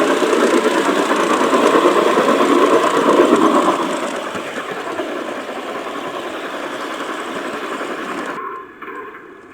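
G-scale model train running along its garden track, heard from a camera riding on the train: a dense rattle of wheels on rail with the motor's hum. It is loudest for the first few seconds, then runs quieter and drops off abruptly near the end.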